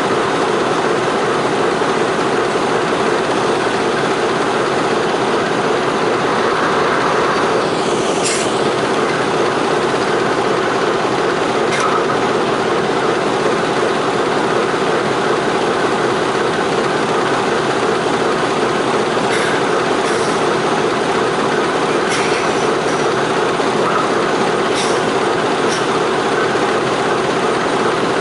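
A slow-moving train heard from on board beside the locomotive: a steady rumble of engine and wheels on the rails. Several sharp clanks break through it, the loudest about eight seconds in, with brief high wheel squeaks later on.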